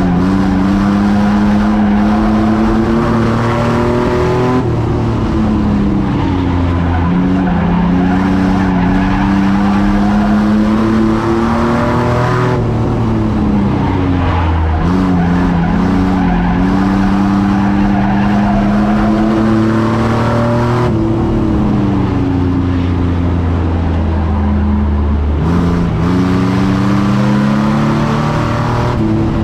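Racing truck engine running hard: its pitch climbs steadily for several seconds, then drops sharply as the throttle lifts. This repeats four times, with steady road and tyre noise underneath.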